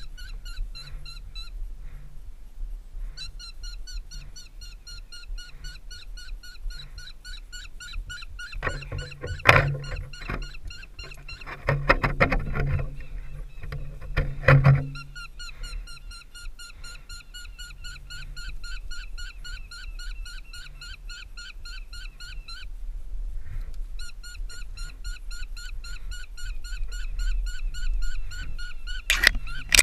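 A bird calling a long series of rapid, repeated squealing notes, with a brief pause about two-thirds of the way in. Around a third of the way in, knocks and rustling from climbing gear scraping on the tree trunk.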